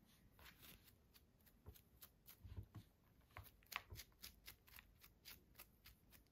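Faint, irregular light ticks and rustles, several a second: soil being brushed off fresh mushrooms by hand.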